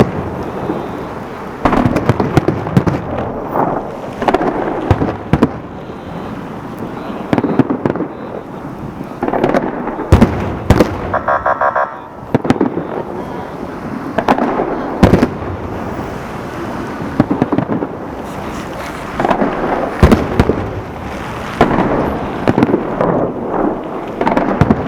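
A fireworks salute: repeated volleys of firework bangs with crackling bursts, a sharp report every second or two. A brief pulsing tone is heard near the middle.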